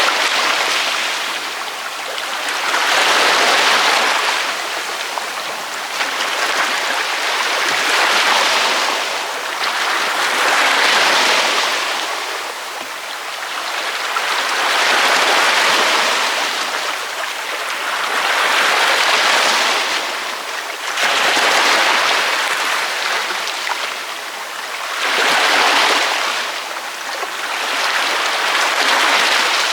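Ocean waves breaking on a beach: a steady hiss of surf that swells and ebbs as each wave comes in, about every four seconds.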